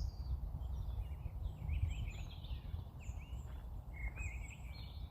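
Small songbirds chirping and warbling in short, rising and falling phrases, over a steady low rumble.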